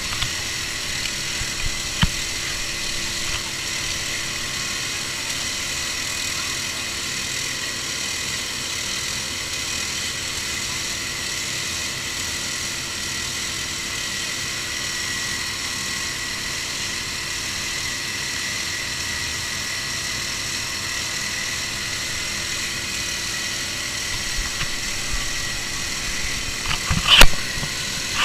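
Steady vehicle engine and road noise, unchanging in pitch, with a brief knock about two seconds in and a loud sharp clack near the end.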